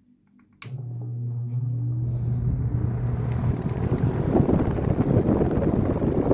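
Old Ventisilva VPL 65 cm wall fan switched on with a click: its motor hums and the blades spin up, a rising whir building into a steady rush of moving air.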